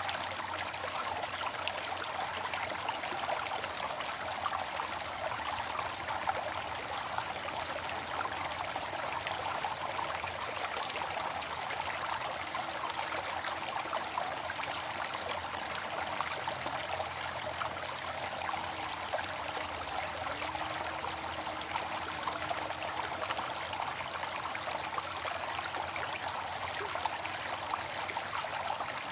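Water fountain splashing and trickling steadily, with a dense patter of small droplets.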